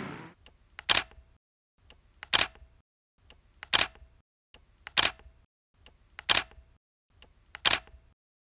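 A camera shutter firing six times at an even pace, about once every 1.3 seconds, each a faint click followed by a louder snap, with silence in between.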